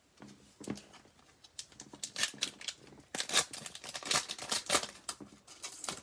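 Hands tearing open a trading card pack wrapper and handling the cards: a rapid run of short crinkling, rustling and clicking noises, busiest in the middle.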